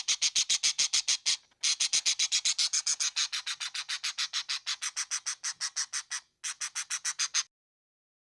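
Parakeet giving a rapid run of short, shrill, evenly spaced calls, about seven a second, with two brief breaks and stopping about seven and a half seconds in.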